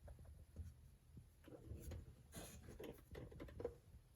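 Near silence: faint, irregular light ticks and rubbing over a faint low hum.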